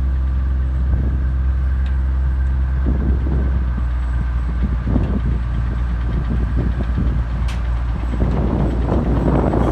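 Tractor engine running steadily with a deep hum, with rougher swells of noise a few times.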